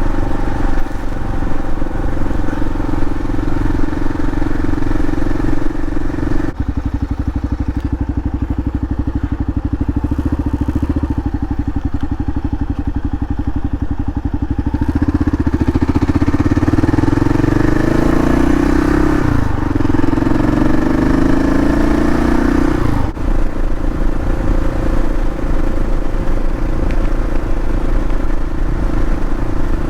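Kawasaki KLR 650's single-cylinder engine running while riding, with wind noise. Past the middle it revs up, dips once as if shifting gear, revs up again, then settles back to a steady cruise.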